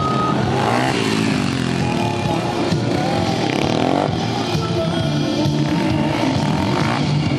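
Motorcycle engine revving up and down repeatedly, over loud rock music.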